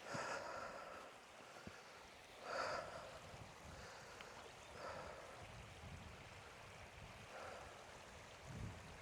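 A man's breathing as he walks: four audible exhales about two and a half seconds apart.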